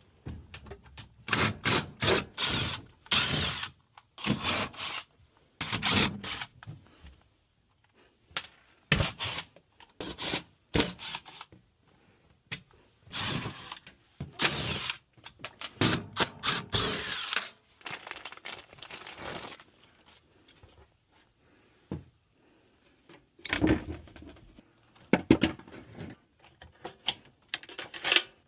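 Power drill running in repeated short bursts, with quiet pauses between them.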